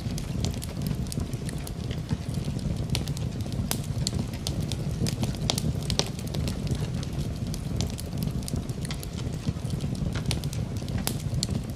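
Wood fire in a fireplace crackling, with frequent irregular sharp pops over a steady low rush of the flames.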